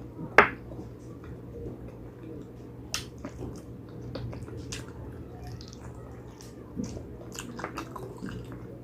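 A person eating spicy pig trotters: scattered wet chewing clicks and lip smacks, with one sharp smack about half a second in, over a steady low hum.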